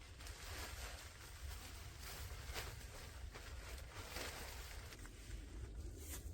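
Rustling and handling noises with a few sharper scrapes or rustles about two and a half, four and six seconds in, over a steady low rumble.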